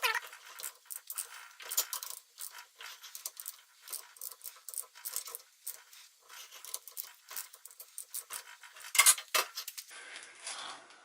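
Small metal parts and hand tools clinking and tapping as they are handled, a run of irregular light clicks with a pair of louder knocks about nine seconds in.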